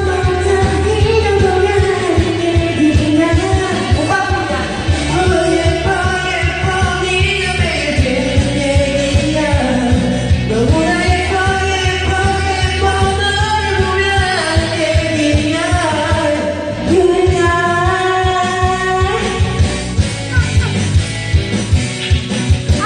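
Karaoke: a voice singing a Korean pop song over a backing track with a steady bass and drum beat.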